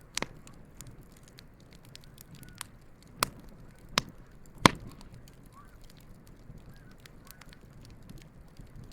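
Wood campfire crackling with many small ticks over a low rumble of flame, and four sharp pops in the first five seconds, the last the loudest.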